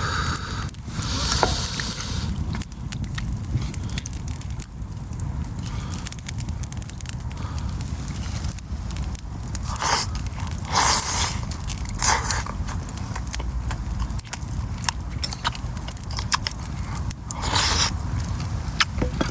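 Campfire crackling with scattered sharp pops over a steady low rumble, with a few short scraping or chewing noises from close by, the loudest about halfway through and again near the end.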